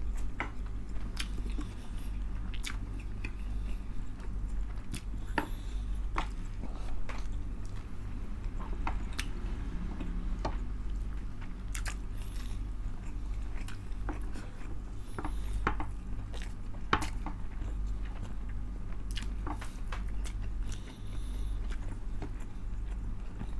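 Close-miked mukbang eating: two people chewing soft pork blood stew (tinumis, a Nueva Ecija dinuguan) and rice, eaten by hand, with irregular wet mouth clicks and smacks. A steady low hum runs underneath.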